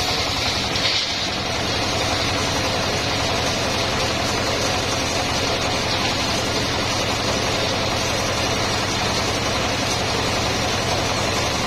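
The engine of a homemade circular sawmill running steadily at an even, pulsing idle.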